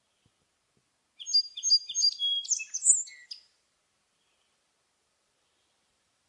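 A songbird singing one short phrase a little over a second in: a few quick, evenly repeated high chirps, then a handful of varied whistled notes, lasting about two seconds.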